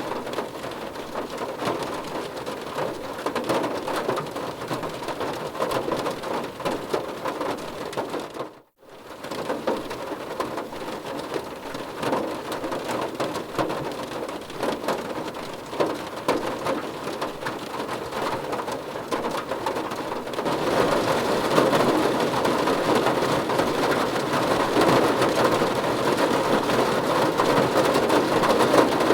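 Rain drumming steadily on a car's roof and windows, heard from inside the car. The sound dips out almost to silence for an instant about a third of the way in. About two-thirds of the way in it turns heavier and louder.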